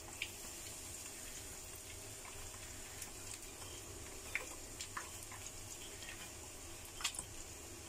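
Breadcrumb-coated chicken wings frying in hot oil in a pan: a faint, steady sizzle with a few soft pops.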